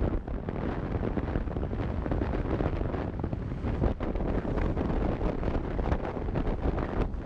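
Wind buffeting a helmet- or bike-mounted action camera's microphone over the rumble of a motorcycle riding along, a steady, loud, rough noise.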